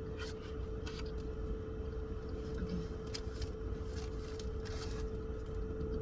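Steady hum and low rumble inside a parked car, with scattered light crinkles and clicks as food and wrappers are handled.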